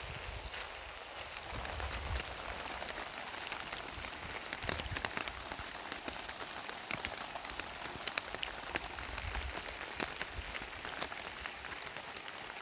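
Heavy rain falling steadily, with many sharp separate drop impacts over the hiss.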